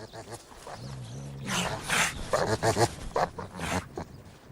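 North American river otters calling to each other during courtship. There are a few softer calls at first, then a run of short, loud, harsh calls from about one and a half to four seconds in.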